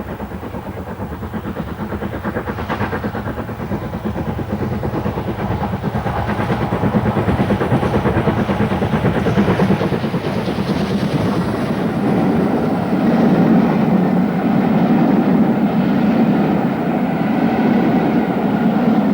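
GWR City class 4-4-0 steam locomotive City of Truro running under steam, with rapid exhaust beats and rail noise, growing louder over the first dozen seconds and then holding.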